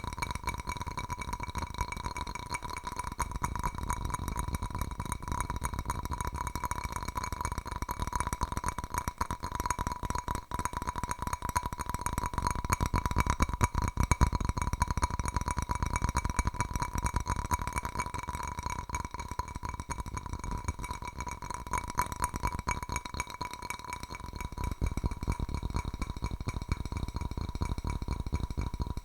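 Fingernails tapping very fast and without pause on a hard object that rings with a steady pitch, growing louder for a moment about halfway through.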